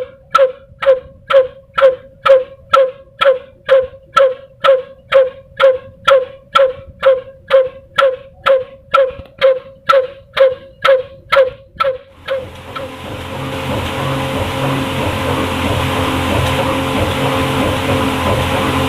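Old single-cylinder black diesel engine running slowly, its exhaust beats coming evenly about two a second, each with a ringing pop. From about twelve seconds in, the beats give way to a steadier, denser running noise of the engine and machinery.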